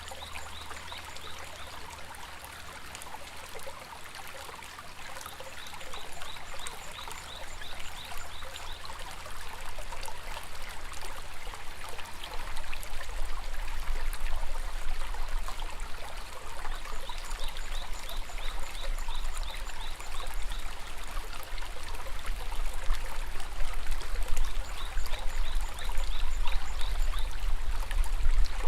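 A shallow river babbling and rushing steadily over stones, growing louder and fuller from about halfway through. Several times, a run of quick high chirps sounds above the water.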